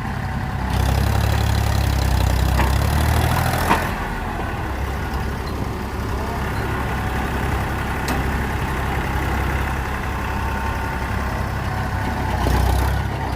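Diesel tractor engines running, the engine note rising about a second in and dropping back near four seconds, then rising briefly again near the end.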